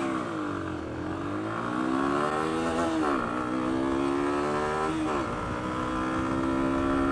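Lexmoto Venom 125's single-cylinder 125cc engine accelerating hard through the gears, its pitch climbing and dropping back at each upshift, about three times.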